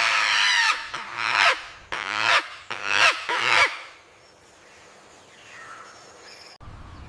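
Bird calls, loud and harsh: one long call, then four shorter ones over the next three seconds, after which only faint background sound remains.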